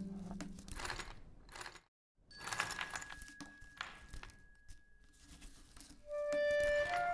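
Quiet, scattered light metallic clicks, clinks and rustles, the foley for a small jointed metal bird stirring on a wooden workbench. Near the end a sustained music note comes in.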